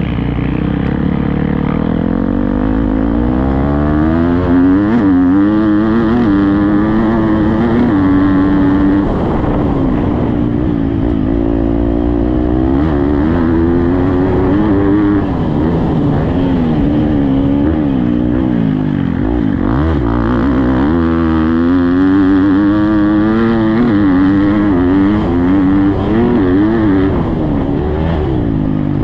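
Motocross bike engine being ridden hard around a dirt track, its pitch climbing and falling over and over as the throttle opens and closes.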